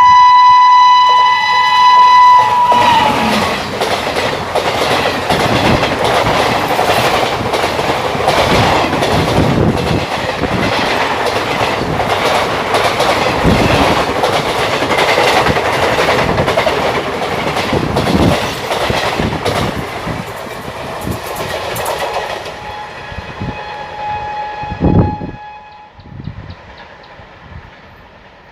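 WAP-5 electric locomotive sounding its horn as it approaches, the pitch dropping as it passes, then the express train running past at speed with wheels clattering over the rail joints, fading away. A fainter, lower horn sounds near the end.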